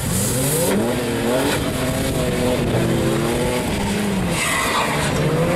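A car engine revving up and down repeatedly under hard driving, with brief tyre skids near the start and again near the end.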